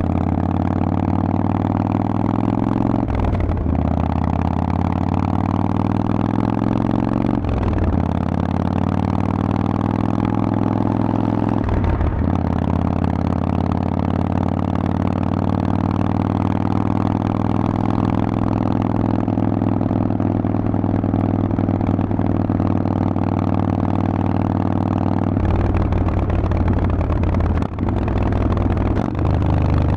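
Harley-Davidson Forty-Eight's 1200 cc V-twin running through a Vance & Hines exhaust, pulling up through the gears: the engine note climbs, breaks briefly at three upshifts about four seconds apart, then holds steady at cruise. Near the end the note drops lower and rougher.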